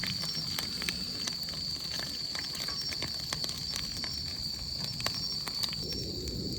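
Chicken wings deep-frying in hot oil over a campfire: a steady sizzle with scattered small pops as the oil spatters.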